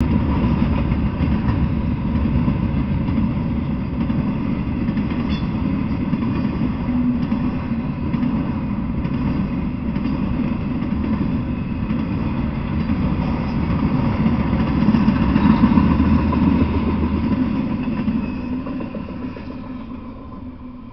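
Intermodal freight train rolling past, its flatcars loaded with truck trailers: a steady rumble of steel wheels on the rails, fading away near the end as the last car goes by.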